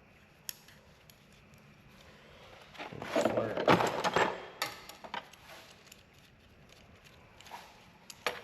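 Small metal parts and hand tools being handled: scattered sharp clicks, and a jumbled rattling clatter lasting about a second and a half a few seconds in.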